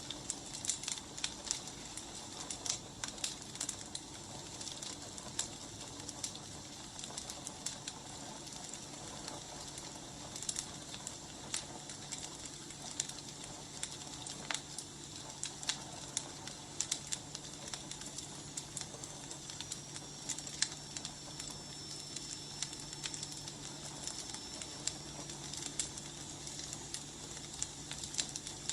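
Firewood burning: irregular crackles and pops over a steady hiss, with a faint high whistle for several seconds past the middle.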